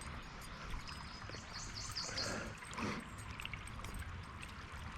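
Water trickling and splashing close beside a canoe, with a short run of faint high chirps about a second and a half in.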